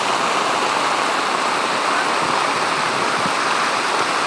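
Heavy rain with rushing water, a loud steady wash of noise that does not change.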